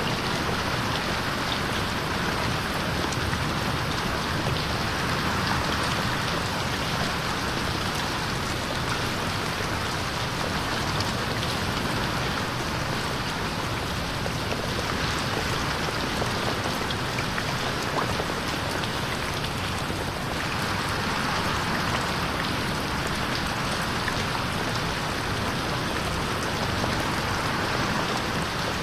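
Steady rain pattering on a window pane, with scattered drop ticks, slowly swelling and fading in waves as the recording is panned around the listener ('8D' audio).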